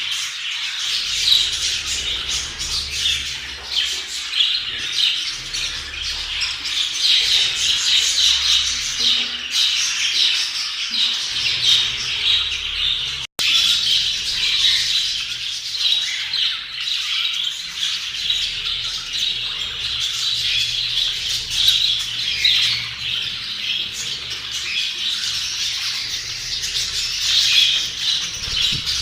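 A group of budgerigars chattering and squawking continuously in a dense, busy warble, broken by a momentary gap about halfway through.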